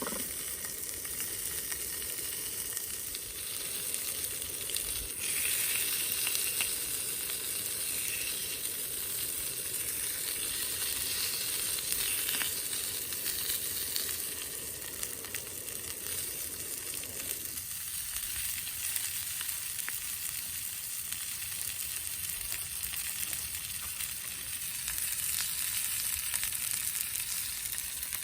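Food sizzling as it fries in a hot pan, a steady spitting hiss with fine crackles. A lower rushing sound underneath stops about two-thirds of the way through.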